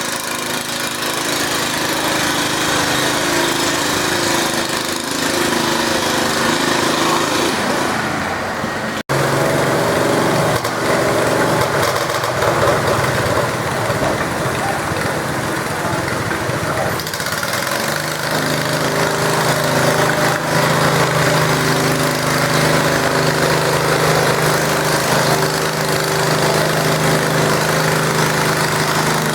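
Garden tractor engine running hard, with a sharp break about nine seconds in where the recording cuts, then a steadier, lower-pitched engine tone from about two-thirds of the way through.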